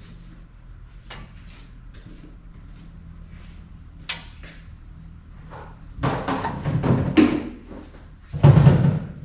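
Objects being handled: scattered clicks and knocks, then two louder bouts of clatter and knocking, the second near the end and the loudest, over a faint steady low hum.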